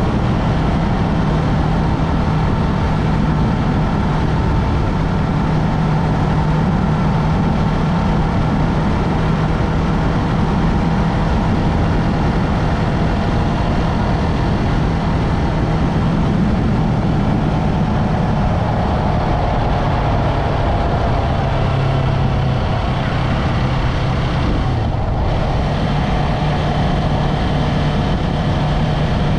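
Yamaha MT-03 motorcycle engine running at a steady pitch during the ride.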